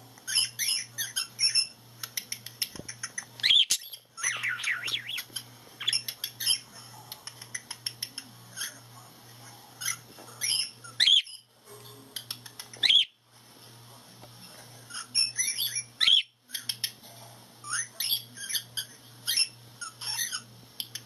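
Budgerigar chatter: rapid warbling chirps and clicks with several louder squawks, broken by a few sudden short gaps. A faint low pulse repeats about twice a second underneath.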